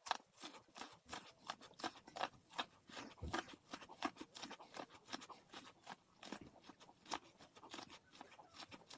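Popcorn being chewed close to the microphone: irregular, faint crunches, several a second.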